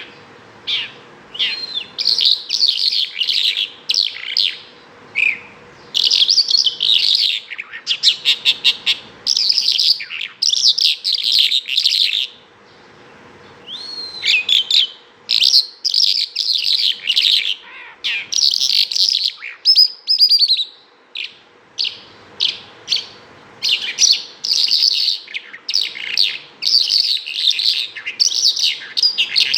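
Bimaculated lark singing: a long, varied song of rapid chirps, trills and warbled notes. It comes in phrases of a second or two with short pauses between, including a fast run of repeated notes about eight seconds in.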